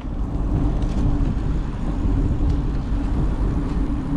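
Wind buffeting a bike-mounted camera's microphone while cycling: a steady low rumble with no distinct events.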